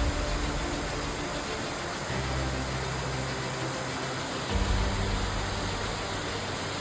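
Steady rushing of a waterfall, with low held notes underneath that change pitch twice, at about two and four and a half seconds in.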